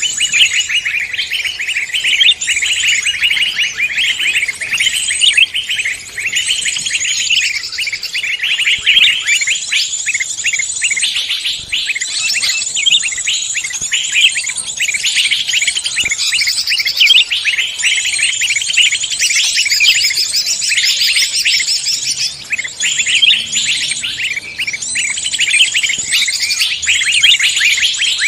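Several songbirds singing at once: a dense, unbroken chorus of rapid, high chirps and trills overlapping one another.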